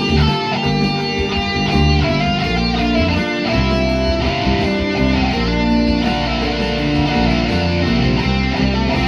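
Guitar music, an electric guitar playing a melodic line over a steady bass.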